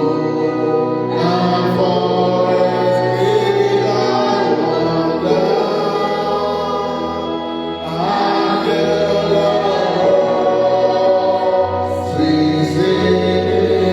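Choir singing gospel music over instrumental backing, in long held chords that change about a second in, around eight seconds in, and again near the end.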